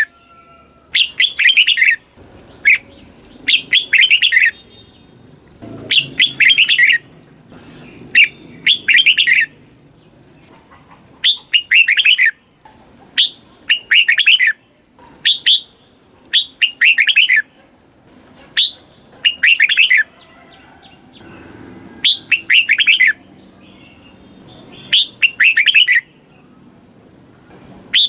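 Red-whiskered bulbul singing: short, bright phrases, each a quick run of notes, repeated every second or two.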